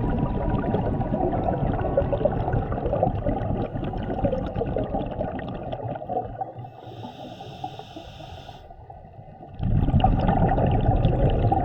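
Scuba diver breathing through a regulator underwater: a long exhalation of crackling, gurgling bubbles, a short hissing inhale through the regulator about seven seconds in, then another burst of exhaled bubbles about ten seconds in.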